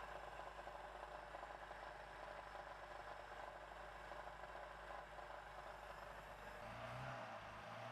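Faint steady engine hum with hiss, a deeper tone coming in near the end.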